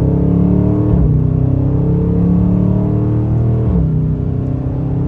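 Dodge Charger Scat Pack's 6.4-litre HEMI V8 pulling hard on its stock exhaust. The engine note climbs steadily and drops sharply at two upshifts, about a second in and again near four seconds, then climbs again.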